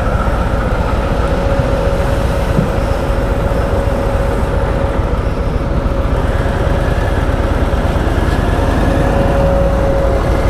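Harley-Davidson Low Rider ST's Milwaukee-Eight 117 V-twin running at a steady pace while the motorcycle is ridden, heard as steady engine and road noise.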